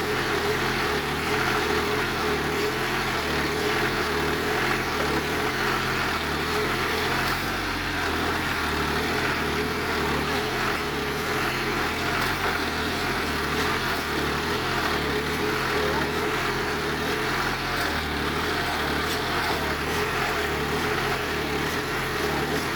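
John Deere tractor's diesel engine running steadily under throttle, with no change in pace.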